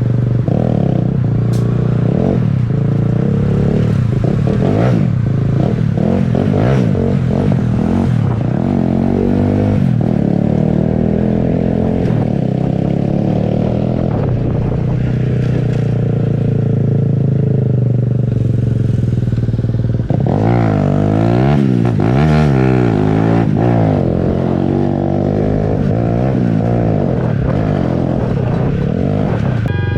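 Motorcycle engine running while being ridden, its pitch rising and falling with the throttle and gear changes. From about 20 to 23 seconds in, there are quick swings up and down.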